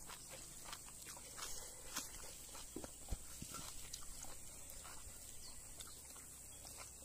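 Faint eating sounds of someone eating rice and fish by hand: scattered small clicks of chewing and lip-smacking over a steady high hiss.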